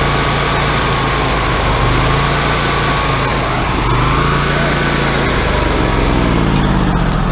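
Wood-Mizer LT40 hydraulic sawmill running steadily, its engine note with a high whine over it; near the end the engine pitch falls as it slows down.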